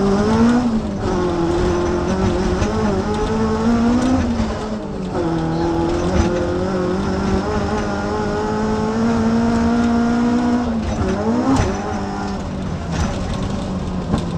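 Toyota AE86's 4A-GE 20-valve four-cylinder engine heard from inside the cabin, accelerating hard. The pitch climbs and drops back at the gear changes, about five seconds in and again near eleven seconds, where it briefly rises and falls sharply.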